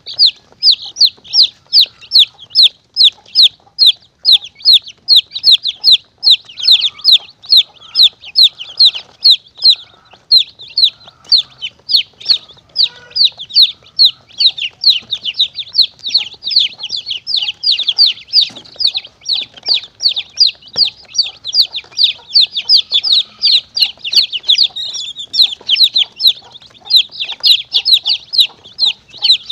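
Young chicks peeping nonstop: short, high-pitched cheeps that each slide downward, about three a second, some overlapping. This is a recorded chick-call lure used to draw monitor lizards and mongooses.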